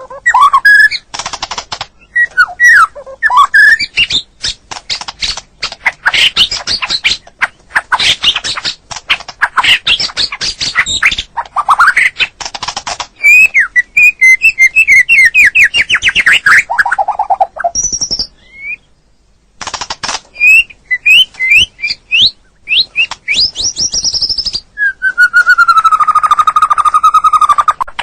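White-rumped shama (murai batu) singing a loud, varied song: whistled glides, rapid chattering trills and mimicked calls, pausing briefly past the middle, with a long held, wavering whistle near the end.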